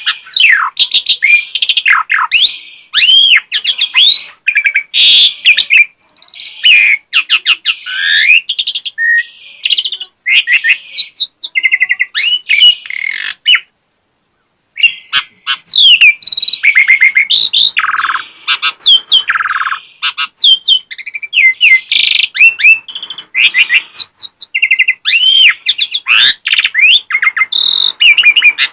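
Asian pied starling (jalak suren) singing a fast, varied song of whistles, rising and falling glides and rapid clicking notes, running through its repertoire of learned phrases. It stops for about a second near the middle.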